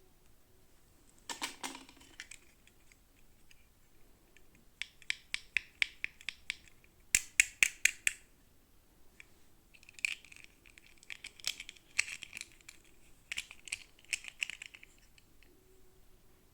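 Small plastic toy packaging being handled and opened: bursts of rapid clicks, taps and crinkles, loudest about seven seconds in.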